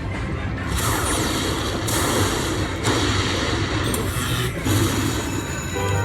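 Slot machine music and sound effects over casino floor noise, with a booming surge about once a second.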